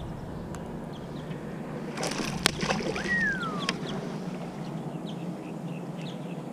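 Water and wind noise around a small fishing boat, with a sharp knock about two and a half seconds in. A single falling whistle follows just after, and faint short chirps come and go.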